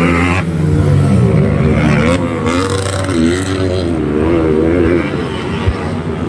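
Trail motorcycle engines revving, the pitch rising and falling repeatedly as riders work the throttle, with a short sharp tick near the end.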